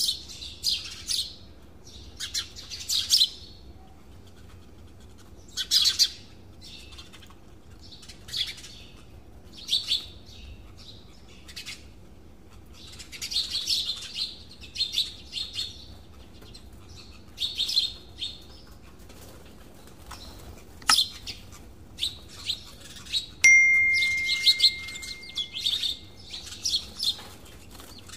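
Birds chirping in short high bursts every second or two. A sharp click sounds about three-quarters of the way through, and a steady high tone holds for a couple of seconds near the end.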